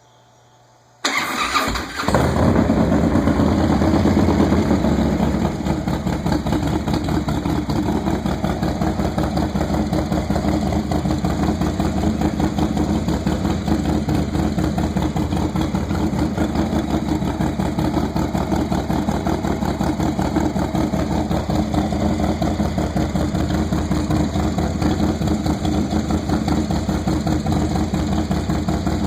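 Engine cold start, on an engine fitted with 850-1 lifters and a FLO oil filter: about a second in it cranks briefly and catches, runs louder at a fast idle for a few seconds, then settles to a steady idle.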